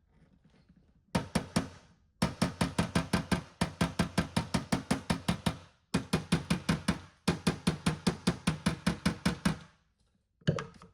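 Rapid, even hammer taps on an aluminium car body panel, about six a second in several runs with short pauses, tapping down the crown around a dent.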